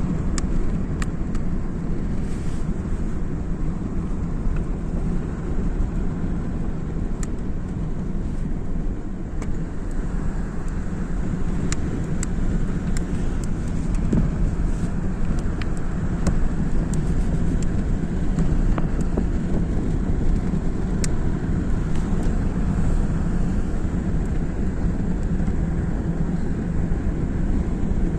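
A vehicle driving on a road: steady low rumble of engine and road noise, with occasional small clicks.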